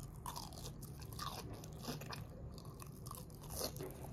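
A person chewing a mouthful of crisp breaded fried food, giving a run of faint, irregular crunches.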